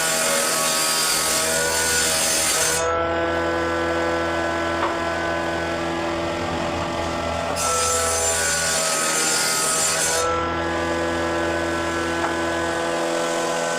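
A power tool working wood in two passes of about three seconds each, a loud hissing cut, with a steady drone of held tones underneath throughout.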